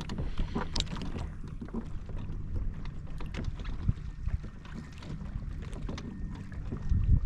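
Wind buffeting the microphone and water lapping against a fishing kayak's hull, with scattered light knocks.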